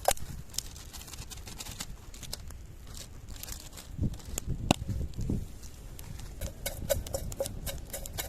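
Irregular light clicks and taps over a low rumble, turning into a quicker run of short ticks in the last couple of seconds.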